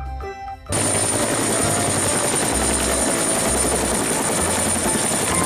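Helicopter sound effect: steady rotor and engine noise with a high whine, starting abruptly about a second in and stopping abruptly near the end.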